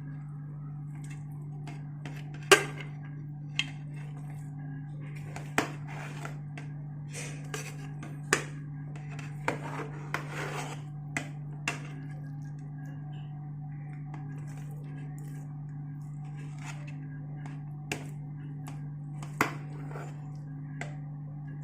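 Scattered metal clinks and knocks of utensils against a biryani pot, about ten in all, the loudest about two and a half seconds in, over a steady low hum.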